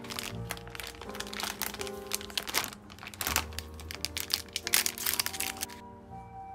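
Dense crinkling and crackling of something being handled, which stops suddenly about six seconds in, over soft background music with held notes.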